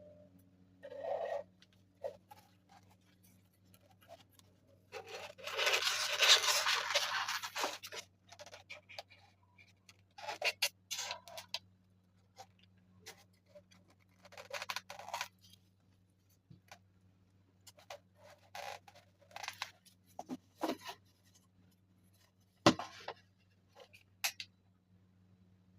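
Irregular bursts of scraping and scratching, the longest lasting about three seconds, with a sharp click near the end, over a faint steady low hum.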